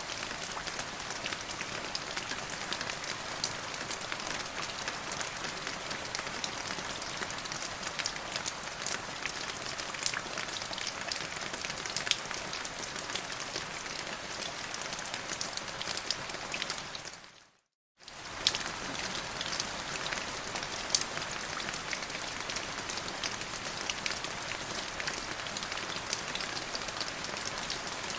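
Steady rainfall, a dense hiss with many individual drops ticking sharply through it. About two-thirds of the way through, the sound fades out to silence for under a second and then comes straight back.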